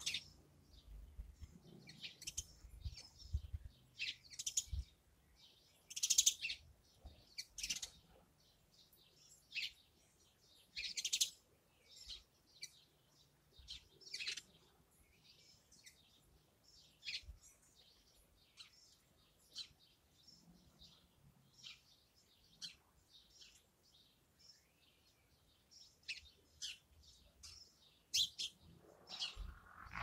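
Small garden birds chirping and calling, with many short high chirps scattered irregularly. There are a few soft low thumps in the first few seconds.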